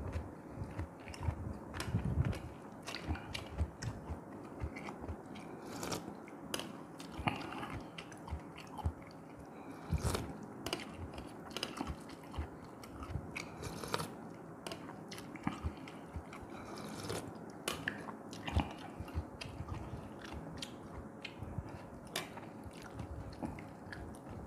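A person chewing and biting while eating red snapper head soup, with many irregular sharp clicks of the mouth and teeth.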